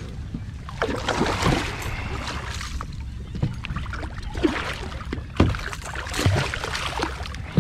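Water splashing and sloshing beside a kayak in irregular bursts as a hooked bluefish thrashes at the surface during the fight.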